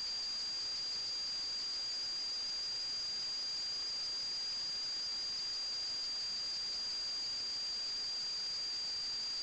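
Steady high-pitched electronic whine, two thin unchanging tones over a constant hiss.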